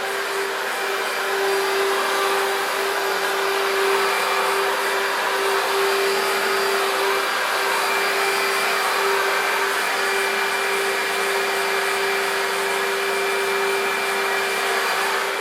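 Electrolux Contour Z1501 upright vacuum cleaner's 1300 W motor running steadily: a continuous rush of air with a steady hum.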